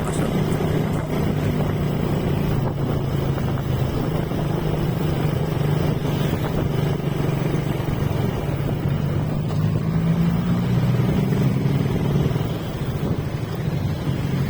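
Motorcycle engine running steadily while riding on the road, with wind noise on the microphone. The engine note rises a little about ten seconds in, then drops off near the end as the throttle eases.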